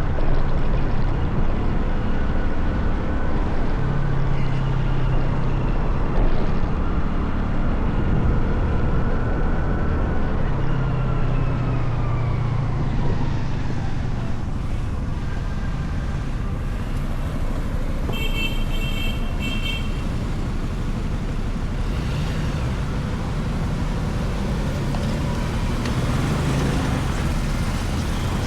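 Motorcycle engine running with steady road and traffic noise, its pitch rising and falling as the bike speeds up and slows down. About two-thirds of the way through there is a brief high beeping tone.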